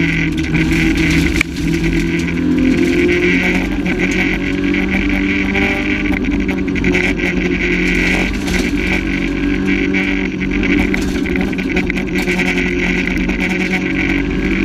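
Renault Clio rally car's engine running hard at high, fairly steady revs, heard from inside the stripped cabin along with road and tyre noise. The level drops briefly about a second and a half in, then picks up again.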